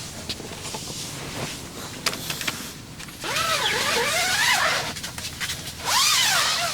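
Tent zipper pulled in two long strokes, each a rasp whose pitch rises and falls with the speed of the pull, the second shorter; faint rain patter and light ticks before.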